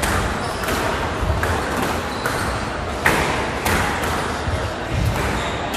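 Squash rally: a squash ball struck by rackets and hitting the court walls, giving sharp knocks about every second, with short high squeaks of court shoes.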